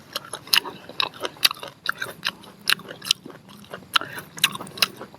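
Biting and chewing kernels off a cob of grilled corn, close to the microphone: irregular sharp, crunchy clicks, several a second.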